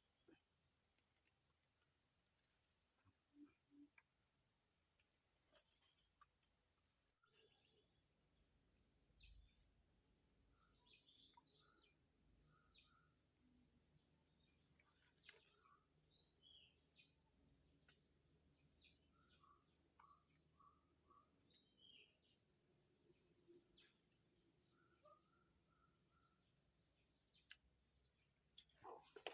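A steady, high-pitched chorus of insects, such as crickets or cicadas, with scattered short bird chirps. The chorus briefly drops out about seven seconds in, and a louder steady tone joins it for about two seconds around the middle.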